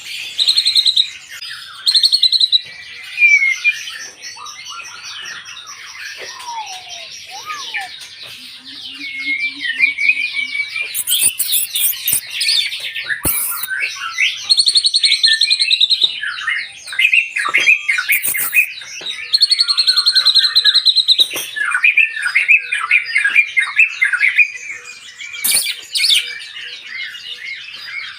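White-rumped shama singing a long, varied song of whistled phrases and rapid trills, with no break. A few sharp clicks cut through it.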